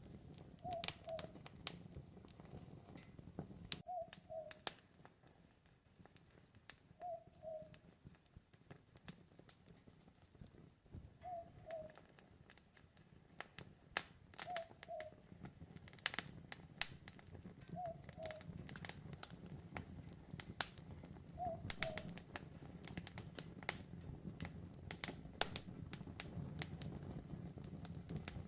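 Campfire crackling with sharp irregular pops over a low steady rumble. An owl gives a short double hoot about every three and a half seconds, seven times in all.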